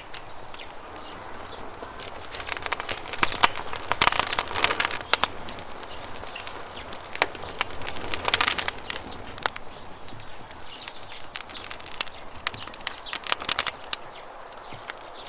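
Campfire crackling: sharp snaps and pops come in clusters, thickest a few seconds in, about halfway through and near the end. Under them runs a steady hiss of river water.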